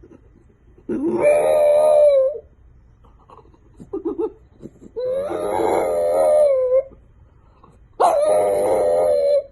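A dog howling: three long howls, each rising quickly at the start and then held, with short quiet pauses between them.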